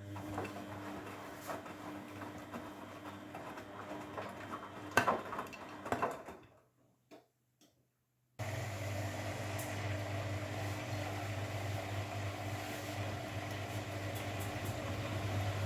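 Grundig washing machine mid-cycle: the drum turns with a few knocks about five and six seconds in, goes quiet for a couple of seconds, then a steady low motor hum starts abruptly and runs on.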